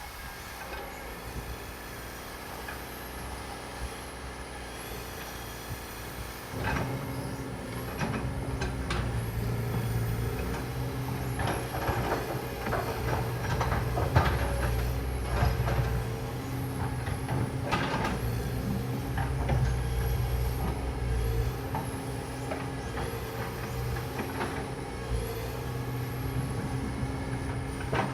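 Heavy vehicle or machinery engine running, with a low rumble that grows louder about six seconds in and scattered knocks and clanks over it.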